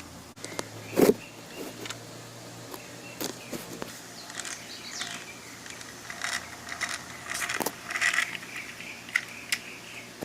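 Irregular light clicks and clacks, with one loud knock about a second in, over a faint steady hum.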